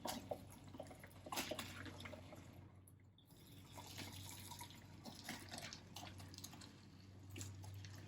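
Pasta cooking water draining from the ravioli and trickling and dripping into a measuring cup set underneath to reserve it. The sound is faint, with scattered small clicks over a steady low hum, and eases briefly about three seconds in.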